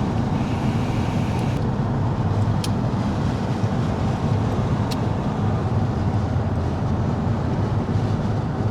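Steady road and engine rumble heard inside a moving car's cabin, with a couple of faint clicks.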